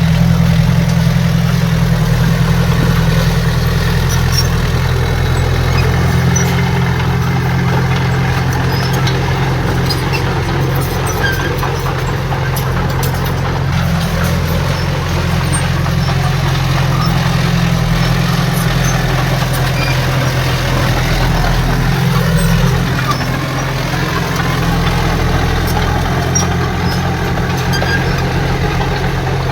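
Heavy diesel engine of earthmoving equipment running steadily, with a deep, even drone.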